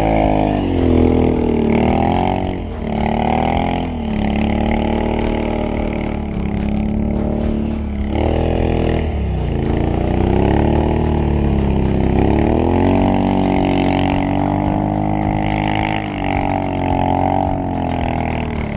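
Can-Am Outlander 650 ATV's V-twin engine revving up and down again and again, pulling hard through deep snow.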